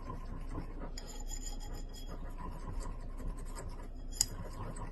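Oil-and-vinegar dressing being mixed by hand in a bowl: a utensil scraping steadily against the bowl, with one sharp clink about four seconds in.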